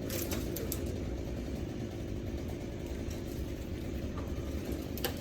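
A steady low engine rumble, like a vehicle idling, with a few light clicks.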